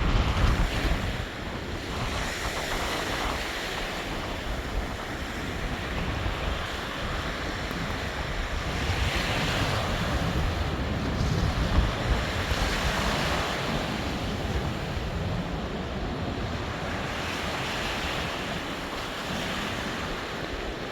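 Rough sea surf breaking on the shore, its hiss swelling every few seconds. Squally wind buffets the microphone, strongest in the first second or two.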